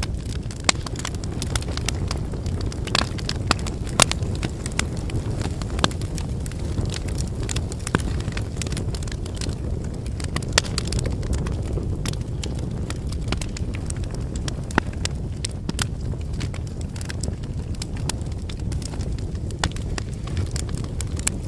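Wood campfire burning: a steady low rumble of flames with frequent sharp crackles and pops from the burning firewood, now and then a louder snap.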